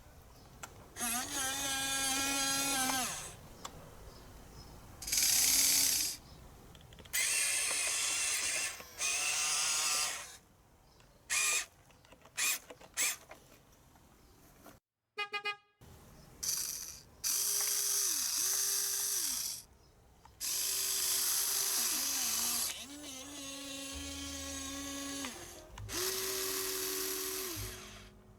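A Huina radio-controlled excavator's small electric motors and plastic gearboxes whirring in short stop-start bursts of one to three seconds as the arm, bucket and turntable move. Many bursts carry a whine that slides up as a motor starts and down as it stops.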